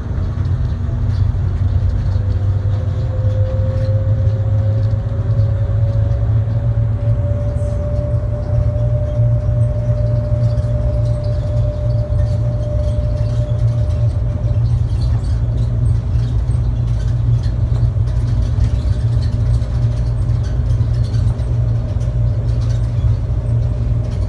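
Airport people-mover train running, heard from inside the car: a steady low rumble, with a motor whine that rises in pitch over the first several seconds as it gathers speed, then holds and fades out about halfway through.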